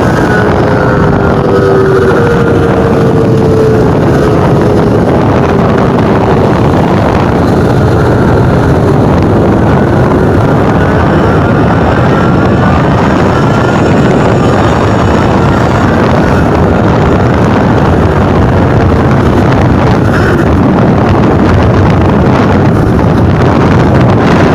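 Motorcycle engine running under way, its pitch drifting up and down, mixed with loud, steady wind noise on the microphone.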